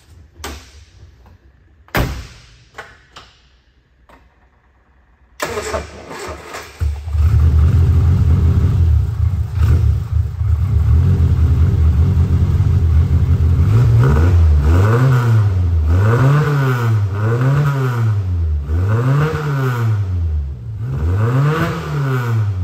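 A car door shuts with a thump about two seconds in. Then the classic Mini's four-cylinder A-series engine cranks and catches about five seconds in and runs steadily. From about halfway it is revved in repeated throttle blips, rising and falling about once a second. This is its first start on a freshly fitted Pertronix electronic ignition and new coil.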